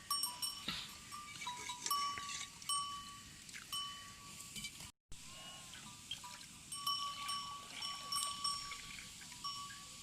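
Sheep flock sounds: repeated short, high, even calls overlapping each other, with chime-like ringing. The sound cuts out completely for a moment about halfway.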